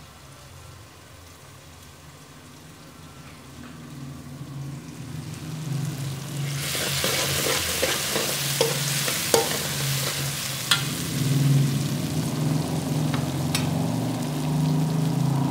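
Onion-and-tomato masala sizzling in hot oil in a metal karahi while it is stirred, in the bhunai stage where the masala is being fried down. A low steady hum for the first few seconds, then the sizzle comes up loudly about six seconds in, with a few sharp clicks of utensil on pan.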